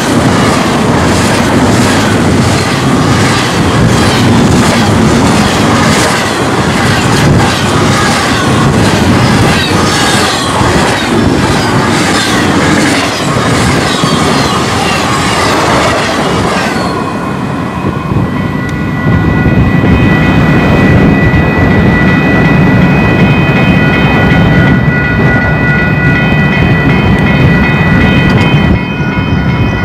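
Union Pacific intermodal freight train rolling past, its wheels clicking rhythmically over the rail joints under a loud rumble. About two-thirds of the way through the clicking fades and a steady, high-pitched wheel squeal of several tones sets in over the low rumble.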